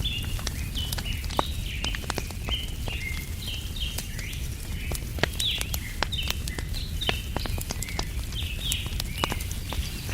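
Wood fire crackling with frequent sharp pops over a steady low background noise, while small birds chirp rapidly and continuously.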